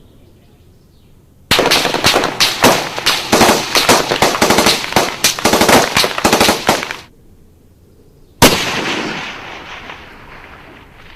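Automatic gunfire: a long burst of rapid shots lasting about five and a half seconds, then after a pause of over a second a single loud shot whose echo fades away over about two seconds.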